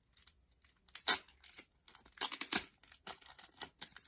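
Packaging stuck to photocards being torn and peeled off by hand: several short ripping strokes, the loudest about a second in and around the middle.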